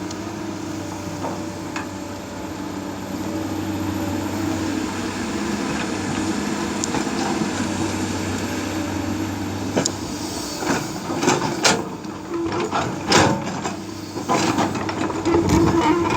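Excavator's diesel engine running steadily with an even hum. From a little past halfway, a run of sharp knocks and clanks comes over the engine sound.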